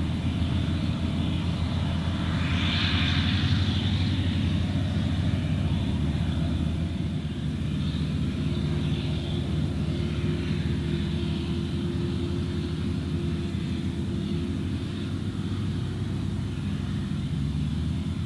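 V12 diesel of a Claas Jaguar 980 forage harvester running steadily under load while chopping maize, with a rush of louder hiss about three seconds in.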